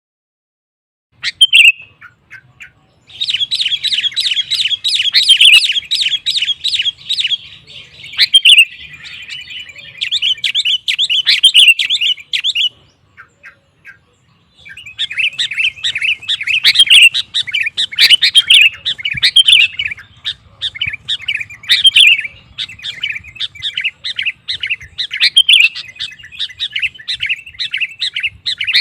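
Sooty-headed bulbul (kutilang) singing hard in fast, chattering phrases, with a short break about halfway through.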